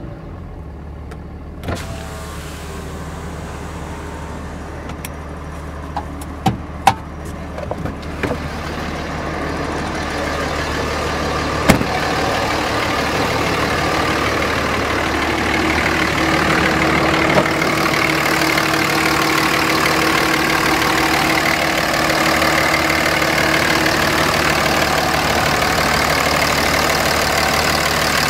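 Dodge Ram 3500's 5.9-litre Cummins inline-six turbo diesel running. A few sharp clicks come in the first dozen seconds, and a rushing noise grows louder over the first half and then holds steady.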